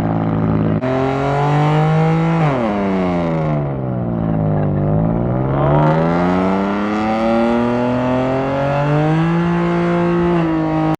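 A car engine running loud. Its pitch holds, then falls over a couple of seconds, then climbs steadily and holds high again near the end, like revs being let down and brought back up.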